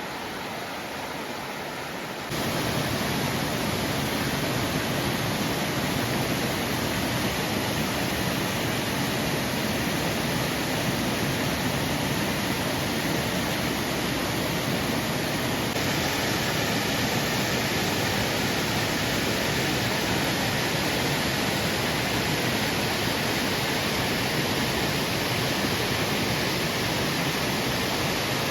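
Steady rushing roar of Yasu-no-taki waterfall's falling water, growing louder about two seconds in.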